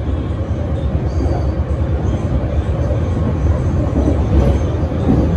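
Steady low rumble of a BART Legacy A2 rail car running at speed, heard from inside the passenger cabin.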